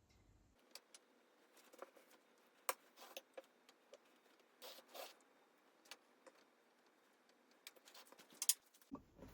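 Small objects being handled: scattered light clicks and brief rustles and scrapes, with a sharper click near the end.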